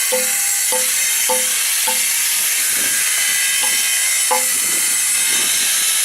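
Stone-working machinery in a fossil workshop running with a steady loud hiss, over which come short ringing metallic taps about every half second, hammer and chisel working the fossil stone.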